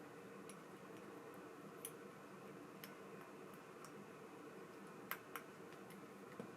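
Near silence: a low steady room hum with a handful of light, irregular clicks a second or so apart, two of them close together about five seconds in.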